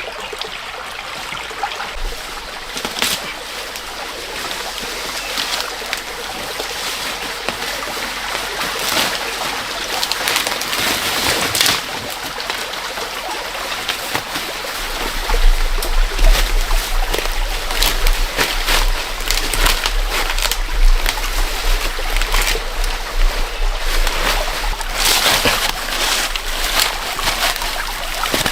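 Running water splashing and trickling, with many small sharp splashes or knocks throughout.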